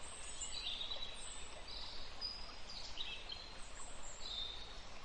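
Faint birds chirping with short, high calls scattered over a steady background hiss.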